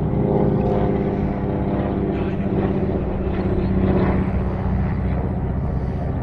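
World War II-era piston-engine propeller planes flying past overhead: a steady engine drone, loudest about four seconds in.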